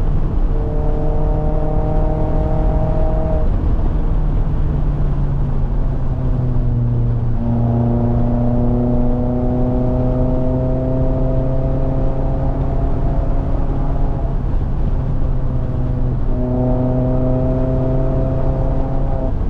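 Mazda MX-5 Miata (ND) 2.0-litre four-cylinder engine pulling hard uphill, its note climbing slowly under load. Several times it drops off or breaks as the driver lifts or shifts the manual gearbox, with the longest steady pull in the middle.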